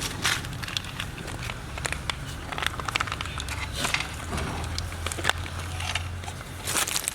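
Puppies scuffling and playing, with many short clicks and crackles over a low steady hum.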